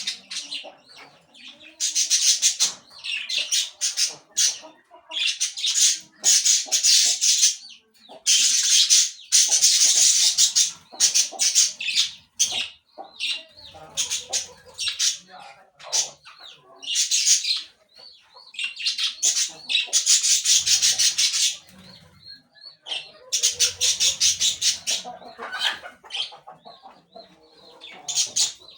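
Parakeets chattering and screeching in shrill, high-pitched bursts of a second or two, repeated many times with short pauses between them.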